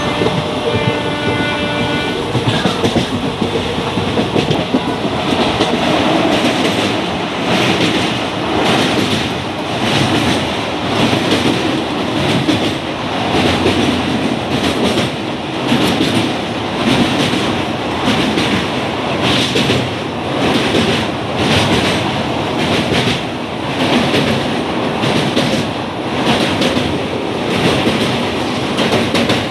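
Express passenger train running at speed, heard from inside a coach: a train horn sounds with several tones and stops about two seconds in. Then steady rolling noise, with the wheels clattering over rail joints in regular pulses about once a second.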